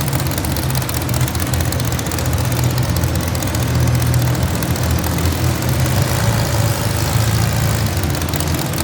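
Garden tractor engine running with a steady, loud low drone.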